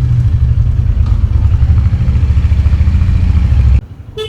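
Loud, steady low rumble of a vehicle engine on the move, cutting off suddenly near the end.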